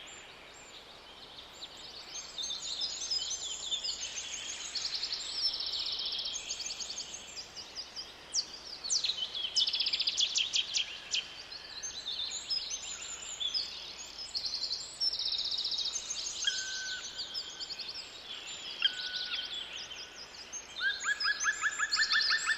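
Several birds singing together in a woodland chorus of overlapping trills and chirps. A lower, steady rapid trill starts near the end and becomes the loudest song.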